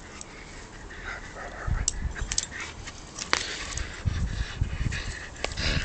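A dog tugging on a cuddly monkey rope toy, its dog noises mixed with irregular scuffling and sharp clicks as the toy is pulled.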